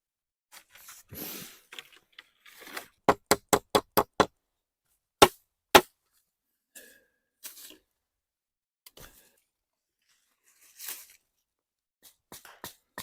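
Sharp knocks of a hand tool striking wood: a quick run of about six blows, then two louder single strikes, with some rustling between.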